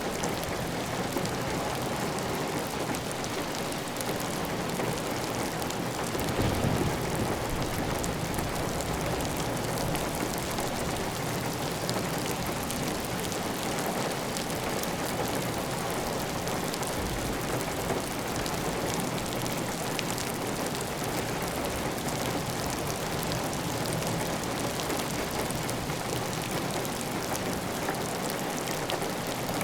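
Heavy rain falling steadily on a clay tile roof, a dense even patter of drops with water running off the roof edge. A brief low rumble swells about six seconds in.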